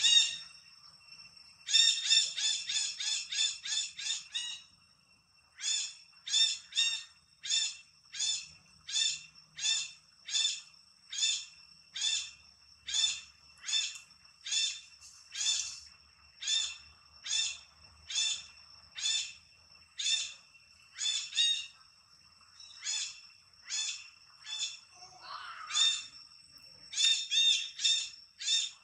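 A bird calling over and over with a sharp, high note: a quick run of about four calls a second, then a steady call a little more than once a second, quickening again near the end.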